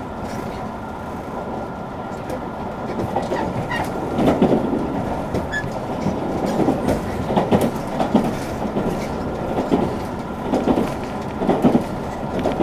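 Running sound of a JR Kyushu 883 series express train heard from on board. Its Toshiba GTO inverter and motors give a steady hum, and the wheels clack over rail joints in repeated knocks that start about four seconds in.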